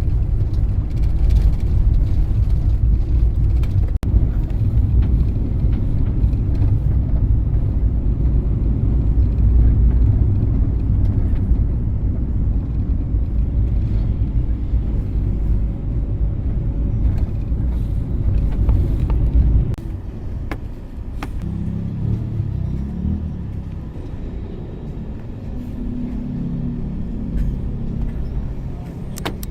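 Engine and road rumble of a moving vehicle heard from inside, a strong low drone that drops off sharply about two-thirds of the way through, leaving a quieter low hum.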